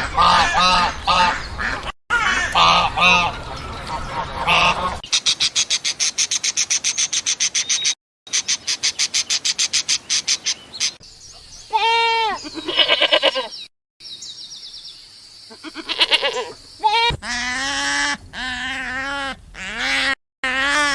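Farm animals and birds calling in several short recordings cut one after another. It opens with quick repeated calls, then a fast run of rapid pulses, then a few rising-and-falling calls, and ends on a string of lower repeated calls.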